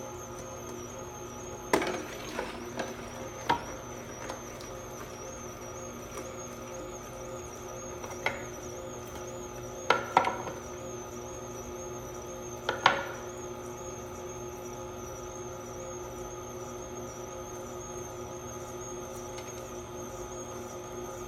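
A handful of short, sharp kitchen knocks from handling lemons and a lime while juicing them, in small clusters: several over the first few seconds, then one, a pair and one more in the middle. A steady hum runs underneath.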